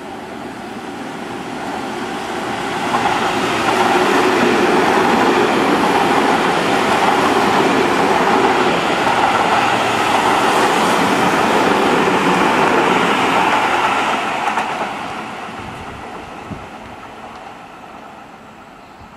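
Seibu 20000-series electric commuter train running through a station at speed without stopping. Its running noise builds for the first few seconds, stays loud for about ten seconds as the cars go by, then fades away.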